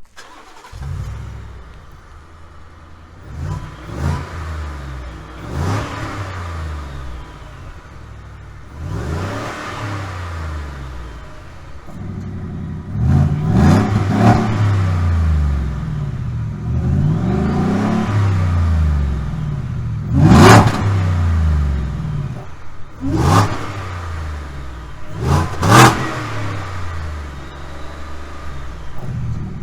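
Ford F150 EcoBoost 3.5-litre twin-turbocharged V6 exhaust, fitted with a Guerrilla Bypass cutout valve ahead of the rear muffler, revved again and again: the pitch climbs and falls back many times, steadier and louder through the middle, then several short sharp blips near the end.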